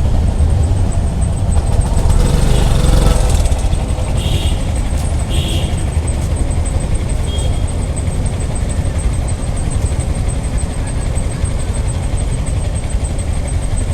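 Street traffic idling at a stopped signal: a steady low rumble of engines, a little louder in the first few seconds, with a few brief higher-pitched sounds between about two and six seconds in.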